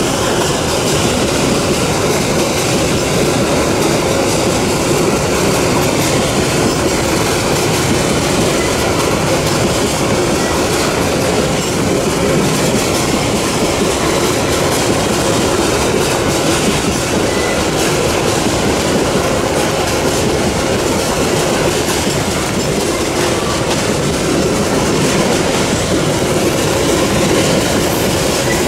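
Loaded Babaranjang coal hopper wagons rolling past on a curve: the steady, unbroken noise of many steel wheels running on the rails.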